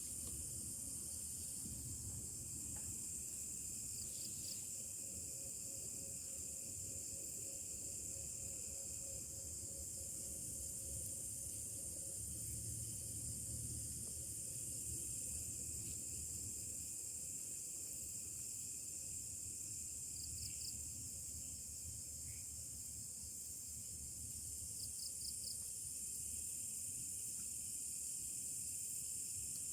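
Steady high-pitched insect chorus, with a few brief chirps, over a low rumble.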